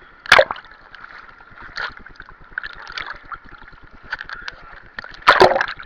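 Pool water sloshing and splashing around the camera in a wave pool, with a constant patter of small clicks. Two loud splashes stand out, one about a third of a second in and a longer one near the end.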